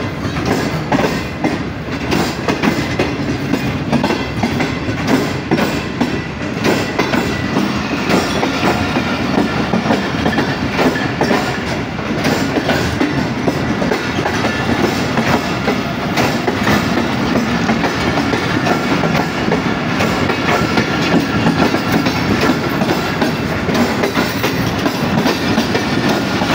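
Pak Business Express passenger coaches rolling past close by, their steel wheels clattering on the rails in a steady, dense run of clicks over a continuous rumble.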